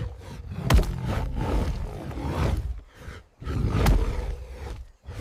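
A lion and a tiger roaring and snarling as they fight, in several loud, rough bursts. Two sharp hits come through, one about a second in and one near the four-second mark.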